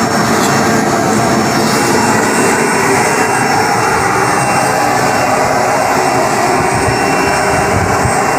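Industrial vacuum cleaner running steadily and loudly.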